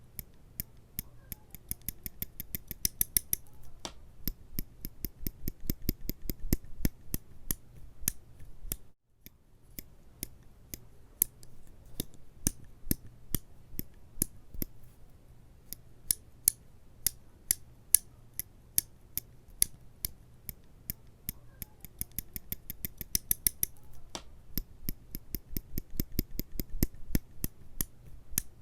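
A rapid, irregular run of sharp, crisp clicks and snips, broken by a brief gap about nine seconds in.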